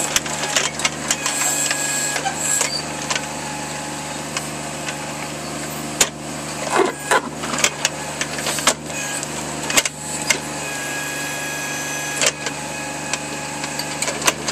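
A small digging machine's engine running steadily, with irregular knocks and clanks as it works at a big root in a trench.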